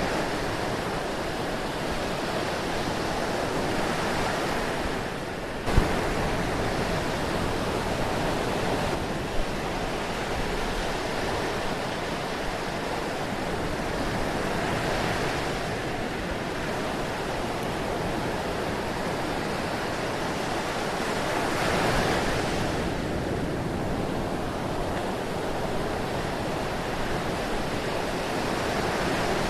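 Ocean surf: a steady wash of waves, swelling a little louder every several seconds. A sharp click about six seconds in and a smaller one a few seconds later stand out above it.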